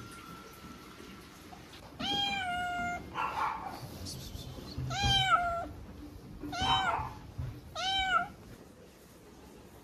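Lamb bleating four times in short, high, clear calls, the first the longest.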